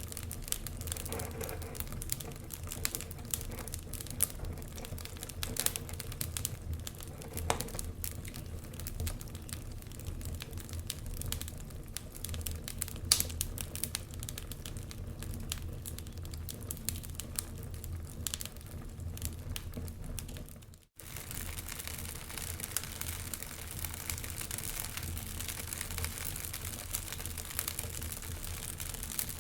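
Log fire crackling with irregular sharp pops over a steady low rumble. About 21 seconds in the sound drops out for a moment and comes back as a denser, more even crackle.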